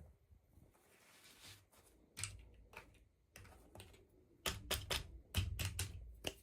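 Light, sharp clicks and taps of small plastic pieces and packaging being handled. They come one at a time at first and grow quicker and closer together from about four and a half seconds in.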